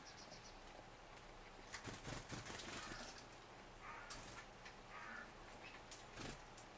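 Small birds at a wooden feeder, faint: scattered pecking taps on the wood, a flurry of wingbeats about two seconds in, and a couple of short chirps.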